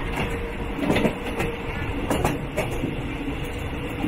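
Ordinary Thai State Railway local train running, heard from inside a carriage: a steady rumble with irregular knocks and rattles from the wheels and carriage.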